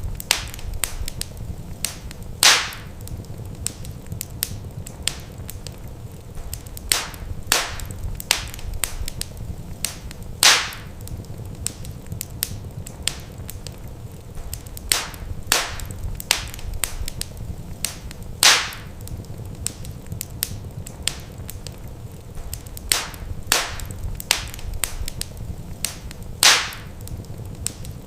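Wood fire in a fireplace crackling: irregular sharp pops and snaps, four of them louder and several seconds apart, over a steady low rumble of the flames.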